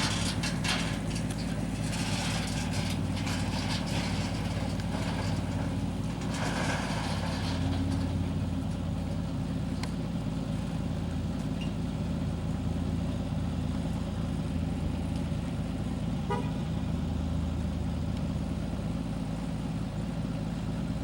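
A car engine idling steadily, with a short faint rattle about two-thirds of the way through.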